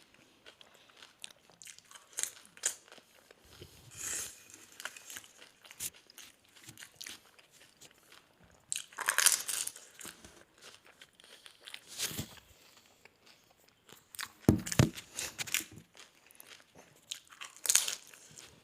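Doi fuchka being eaten fast: crisp puri shells filled with yogurt crunching as they are bitten, with chewing in between. Louder crunches come every few seconds.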